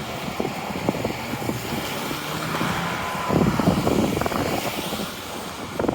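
City street traffic with vehicles going by, loudest a little past the middle, mixed with footsteps in snow.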